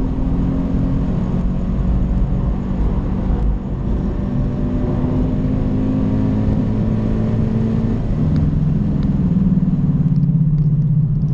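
Car engine running hard under load, heard from inside the cabin, with road noise beneath it. The level dips briefly about three and a half seconds in, and the engine note drops lower and steadies over the last few seconds.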